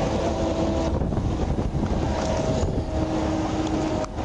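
Steady road noise from passing highway traffic mixed with wind rumbling on the microphone, with a faint hum that comes and goes and a short drop near the end.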